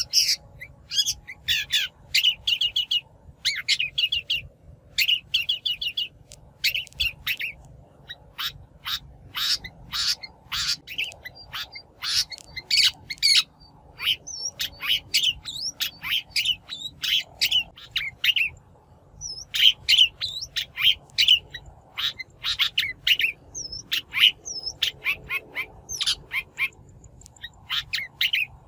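Long-tailed shrike calling: quick runs of short, harsh chattering notes broken by brief pauses, with a few thin upslurred whistles mixed in.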